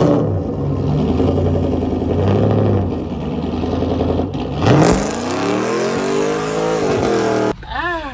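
A car engine running steadily at low revs, then accelerating hard, its pitch climbing for about three seconds before levelling off. It cuts off suddenly near the end, followed by a brief rev up and down.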